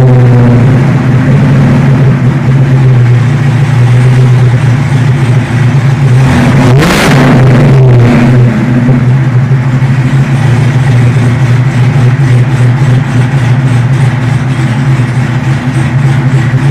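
Cadillac CTS-V's supercharged LSA V8, fitted with an aftermarket cam and long tube headers, drops from a held rev to idle in the first second. It then idles, with one quick rev and fall about seven seconds in.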